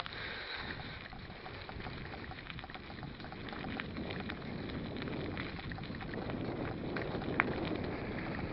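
Mountain bike riding: tyre rumble and wind on the microphone, growing louder as the bike gathers speed, with a light ticking in the first few seconds and a few scattered clicks.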